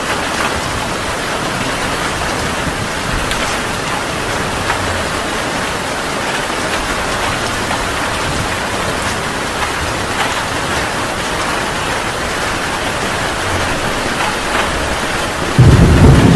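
Heavy rain falling steadily in an even hiss. Near the end a sudden loud, low rumble of thunder breaks in over it.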